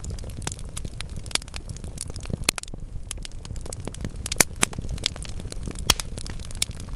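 Wood fire in a fireplace crackling, with frequent small snaps and a few louder pops over a low steady rumble of the flames.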